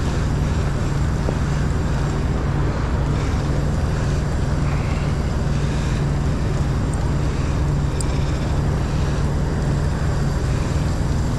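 Idling diesel truck engine giving a steady, unbroken hum, over a constant background hiss.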